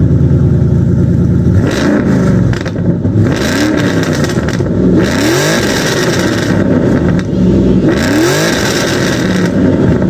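Car engine, freshly fitted with long-tube headers, revved with several quick throttle blips: the pitch rises and falls each time, and it settles back to a loud idle between blips and near the end.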